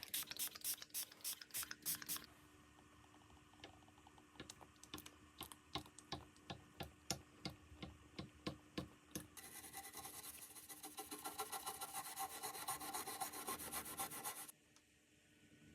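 Hand rubbing or scraping strokes on the guitar during setup work, about four a second at first, then slower. After that comes a steady, faster rubbing that stops suddenly near the end.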